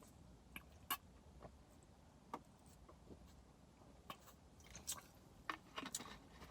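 Faint chewing and mouth clicks while eating, a few short sharp clicks spread out, coming closer together near the end.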